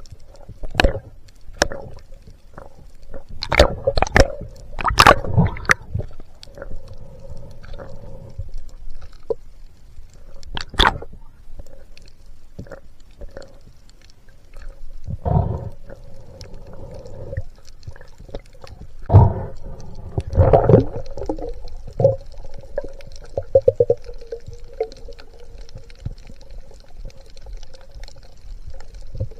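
Underwater sound of a spearfishing dive: water swishing and bubbling, with scattered sharp knocks and clicks, loudest in a cluster about four to six seconds in and again around twenty seconds. A steady low hum runs underneath.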